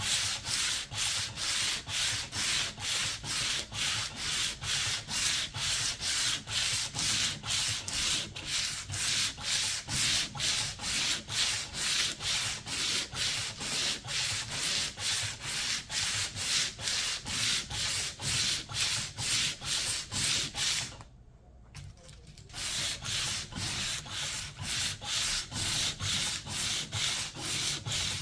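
Hand sanding: sandpaper rubbed back and forth over an old paint finish in even strokes, about two a second, with a short pause about 21 seconds in.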